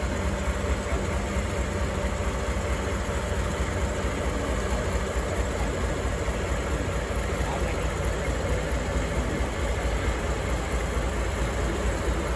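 DE10 diesel locomotive's engine idling with a steady low hum.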